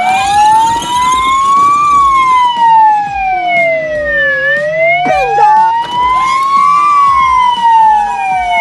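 Police siren wailing, its pitch rising and falling slowly, about two and a half seconds up and two and a half down. A few short clicks and chirps sound over it.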